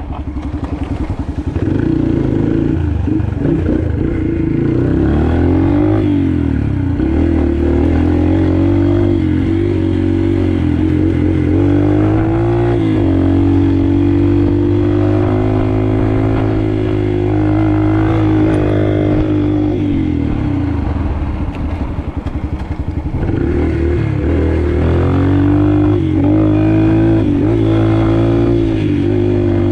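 Yamaha TT-R125 pit bike's single-cylinder four-stroke engine being ridden, its pitch rising and falling as the throttle is worked. The engine eases off briefly about two-thirds of the way in, then picks up again.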